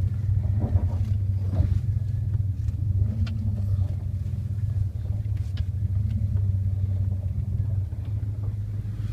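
A 1999 Dodge Ram 1500's 5.2 L Magnum V8 running steadily at low revs while the truck is backed up in reverse, with a few small clicks over the low engine hum.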